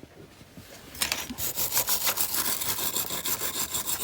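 Wire brush scrubbing flaky paint off a die-cast metal car body, starting about a second in with quick back-and-forth strokes. The paint, loosened by a caustic soda strip, comes off easily.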